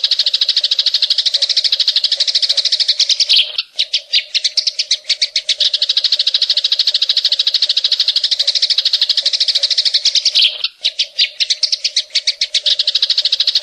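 Green leafbird (cucak ijo) singing a loud, very fast trill of high notes, its rapid 'cililin'-style shot phrase. The trill breaks off twice, and each time the notes start again spaced out and quickly speed back up.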